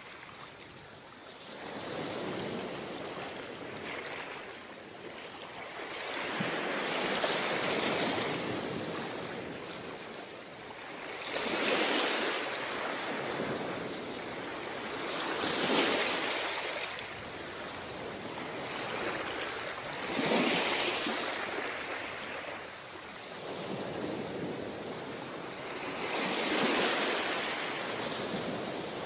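Ocean surf breaking on a beach, waves crashing and washing in one after another, a surge every four seconds or so.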